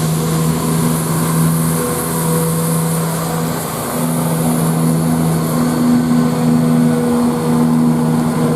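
Class 170 Turbostar diesel multiple unit pulling out of the station, its underfloor diesel engines running with a loud, steady pitched drone.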